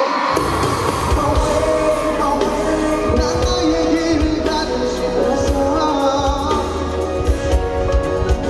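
Live pop music with a heavy bass-and-drum beat that kicks in just after the start, with singing over it.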